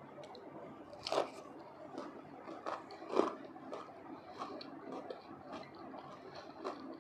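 Biting into crispy fried potato with rice: two loud crunches about one and three seconds in, then chewing with softer crunches about twice a second.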